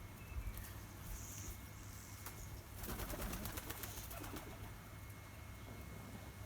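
A dove cooing low, with a brief flutter of wings about three seconds in and a few faint high chirps from small birds. A steady low hum runs underneath.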